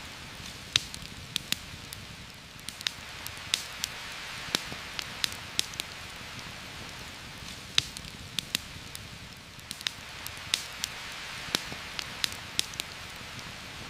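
Heavy rain falling steadily through a forest, swelling and easing slightly, with frequent irregular sharp crackles and pops over the hiss.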